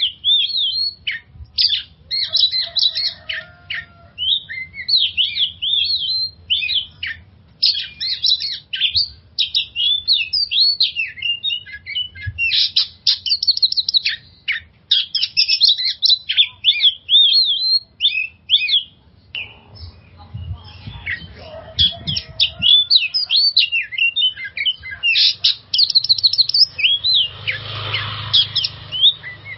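Oriental magpie-robin (kacer) singing a long, varied song of quick whistled phrases and trills in rapid bursts, with a harsh rasping burst near the end.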